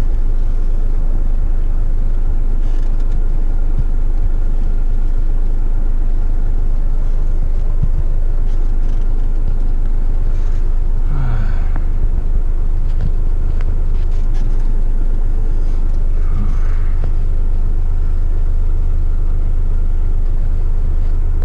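Heavy rigid rubbish truck's diesel engine and road noise, a steady low drone while the truck is driven. The pitch rises briefly about halfway through and again a few seconds later.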